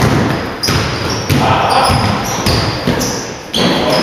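A basketball bouncing on a gym court: a few sharp bounces, each trailing off in the hall's echo, with voices in the background.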